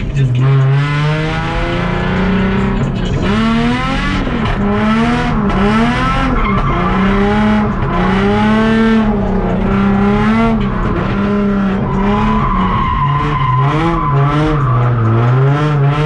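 Drift car's engine revving up and down repeatedly as it slides, with tyres squealing.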